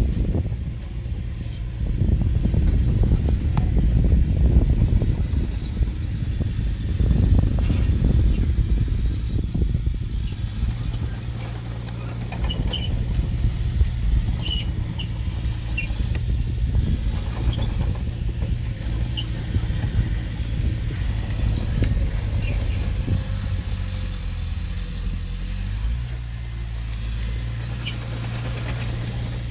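Heavy diesel engine of earthmoving equipment running, louder and uneven for the first twelve seconds or so, then settling to a steady low drone, with scattered short high squeaks.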